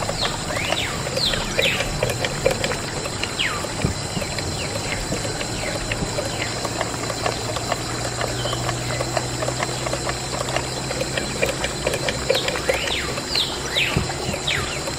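Water pouring and splashing steadily, with quick high chirps that sweep downward in clusters near the start and near the end, and a low hum for a few seconds in the middle.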